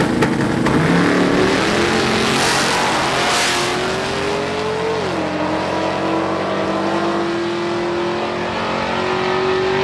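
Two big-wheel donk cars drag racing side by side at full throttle: engine pitch climbs, drops sharply at a gear shift about five seconds in, then climbs again.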